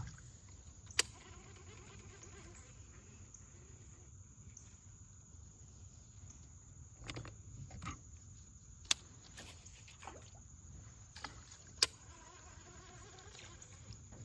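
A handful of sharp clicks and knocks over a quiet, steady low hum. The loudest clicks fall about a second in, near nine seconds and near twelve seconds.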